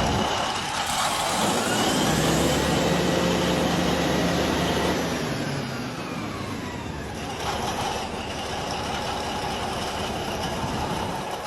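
Caterpillar D9 bulldozer's diesel engine running. The revs rise early, then fall away about six seconds in, and it runs a little quieter after that.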